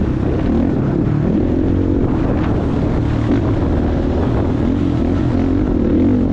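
Motocross bike engine running hard, its pitch rising and falling again and again as the throttle is opened and closed.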